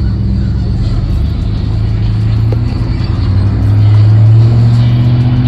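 Vehicle engine running with a steady deep drone, getting louder a little past the middle.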